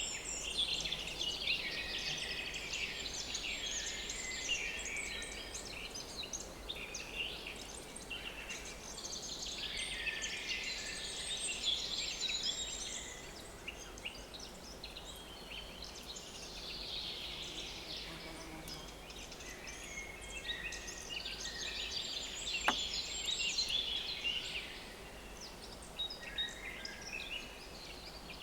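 Small woodland songbirds singing in high-pitched phrases of chirps and trills, each a few seconds long with short pauses between. A single sharp click comes about two-thirds of the way through.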